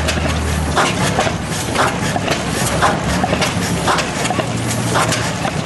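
1880s Crossley slide-valve flame-ignition gas engine running slowly, with a sharp click about once a second.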